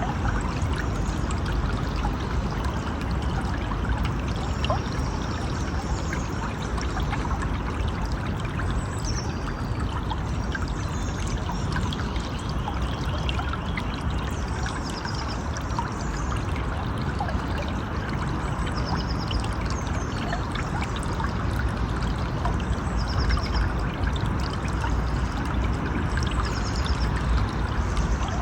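A river or stream running steadily, with an even rushing and trickling of water. Short, high, rapidly pulsed chirps break in now and then over it.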